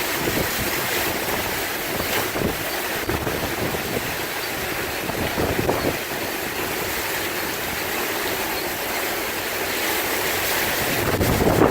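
Hurricane-force wind blowing hard, a steady rushing noise that swells slightly in gusts, with wind buffeting the microphone.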